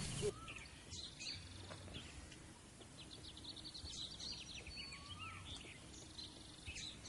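Faint bird calls: scattered high chirps, a quick run of repeated notes about three seconds in, and a single rising-then-falling whistle about five seconds in.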